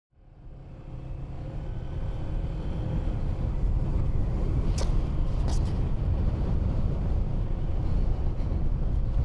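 Honda 125cc learner motorcycle's small single-cylinder engine running as it is ridden, a steady low rumble mixed with wind noise on the microphone, fading in at the start. Two sharp clicks come about halfway through.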